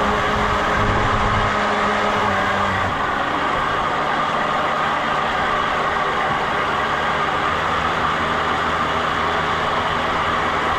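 An engine running steadily, its low pitch dropping slightly about three seconds in.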